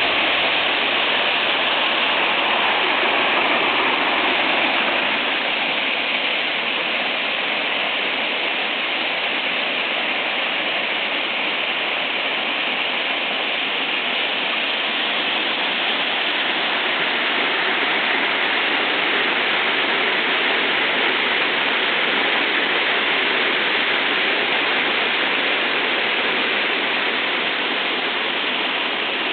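River waterfall: water pouring and splashing in a steady, loud rush.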